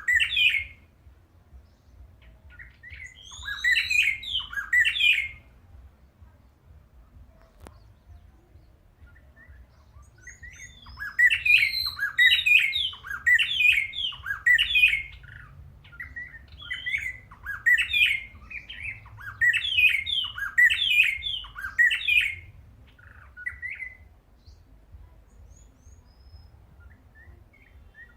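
A territorial male bird singing loud phrases of repeated sweeping notes. There is a short burst right at the start, another about four seconds in, and a long run of about two notes a second from about eleven to twenty-two seconds in. It is singing back against playback of its own recorded song, answering what it takes for a rival male.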